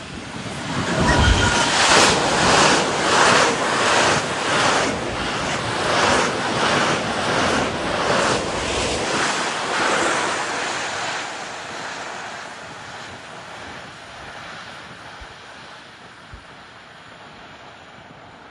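Freight train wagons passing at speed, a rhythmic rushing clatter about three beats every two seconds as the wheelsets go by, fading away as the train recedes. After it, a steady hiss of wind on the microphone.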